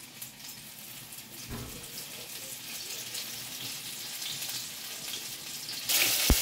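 A faint hiss with light crackles, then about six seconds in a sudden jump to loud sizzling: flour-coated chicken strips deep-frying in hot oil in a pan.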